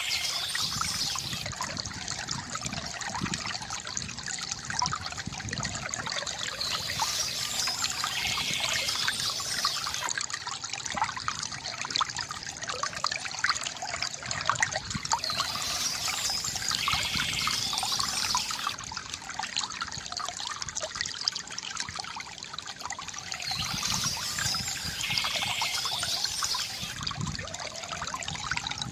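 Water trickling and splashing steadily from a bamboo fountain, with a brighter, higher rush coming back about every eight seconds.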